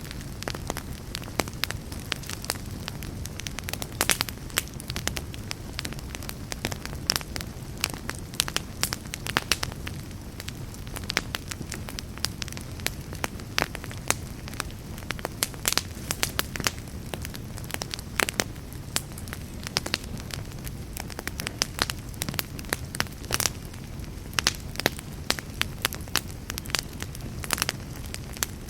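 A fireplace fire crackling and popping: irregular sharp crackles, several a second, over a steady low rumble of burning.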